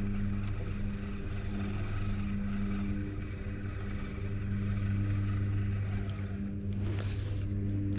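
A boat motor running steadily with a constant low hum. A brief sharp sound comes about seven seconds in.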